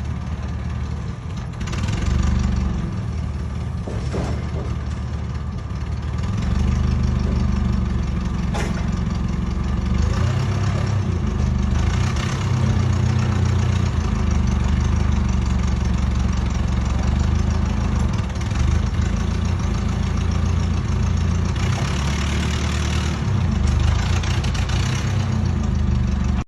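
Large engine running, with most of its sound low down, getting louder from about six seconds in and staying there.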